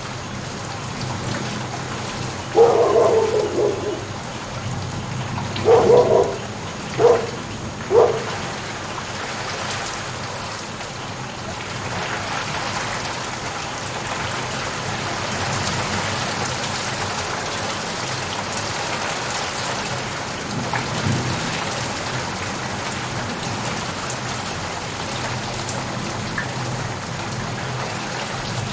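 Steady rain falling. Four short, louder sounds stand out between about two and eight seconds in: the first lasts about a second, the others are briefer.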